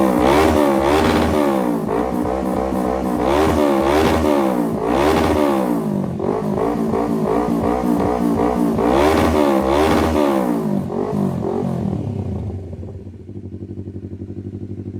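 Kawasaki Z650 parallel-twin engine breathing through an aftermarket full exhaust system, revved hard over and over, its pitch climbing and falling with each blip. About twelve seconds in it drops back to a steadier idle. The exhaust has a deep bass rumble.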